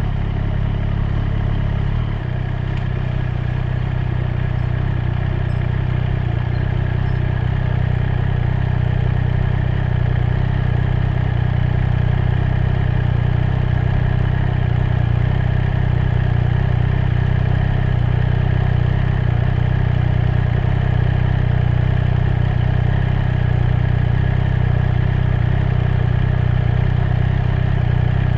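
Triumph Street Triple 765 R's inline three-cylinder engine running steadily under way, with a brief change in the engine note about two seconds in.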